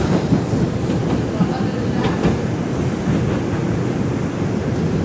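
Interior of an R142 subway car running between stations: a steady rumble of the wheels on the track, with a couple of clicks from the rail joints about two seconds in.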